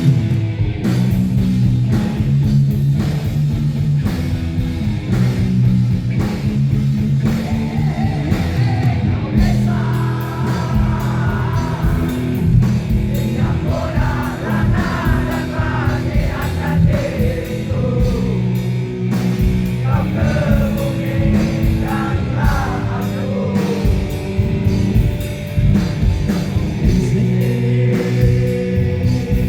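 Rock band playing live, with electric guitars, drums and a singer's voice coming in about eight seconds in.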